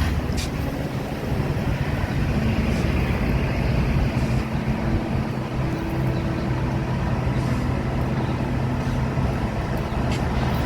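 An engine running steadily, a low drone with a few held tones.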